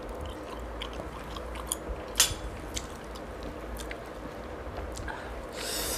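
A person chewing food close to the microphone, with scattered sharp clicks, the loudest about two seconds in, and a short breathy sound near the end.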